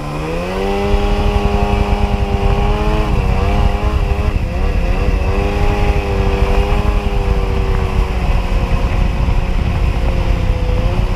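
Sea-Doo XP jet ski's two-stroke engine rising in pitch as the throttle opens, then running steadily at cruising speed with a few small wavers, over a low rush of wind and water.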